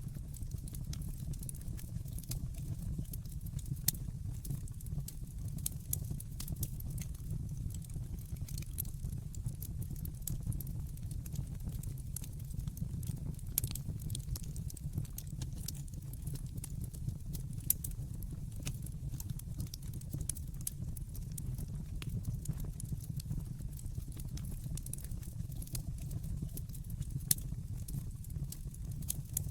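Wood fire crackling in a fireplace: a steady low rumble under a constant scatter of small ticks, with a few sharper pops.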